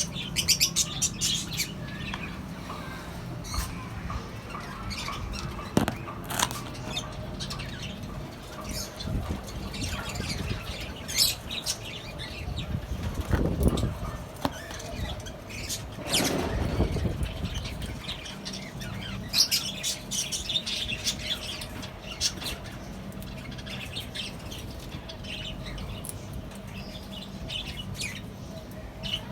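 A mixed flock of lovebirds, cockatiels and budgies chirping and squawking, with many short high calls throughout and wings flapping now and then. A low steady hum runs underneath.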